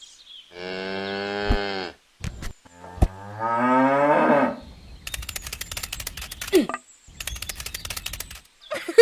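A cow mooing twice: one long steady call, then a call that rises in pitch. A few seconds of rapid ticking follow, with a short break in the middle.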